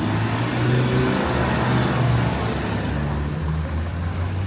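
A motor vehicle's engine running close by in the street, its low hum dropping in pitch about halfway through, over tyre and traffic noise.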